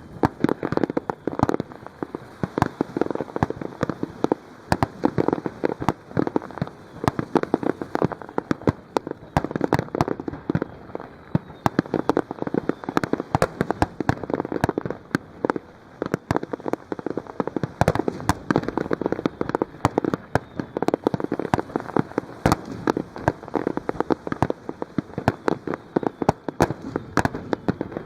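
Fireworks bursting and crackling in a dense, continuous stream of rapid pops and bangs, with a few louder reports standing out, such as one about 18 seconds in.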